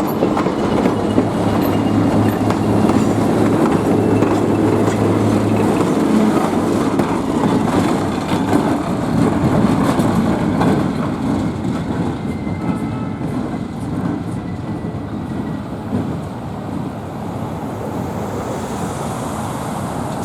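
Short excursion train of an RS-1 diesel, open-air cars and a caboose rolling past a grade crossing. A steady low hum sits under the rolling noise in the first few seconds, and the sound eases off somewhat over the last several seconds.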